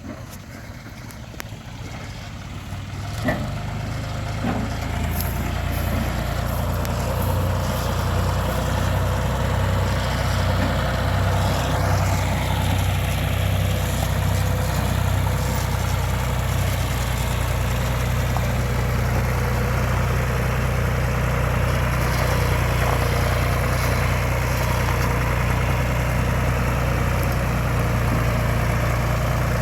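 A vehicle engine running steadily, growing louder over the first several seconds and then holding an even level. A single sharp click comes about three seconds in.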